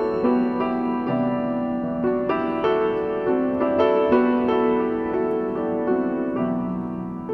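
Background music: piano notes played one after another at a gentle, even pace.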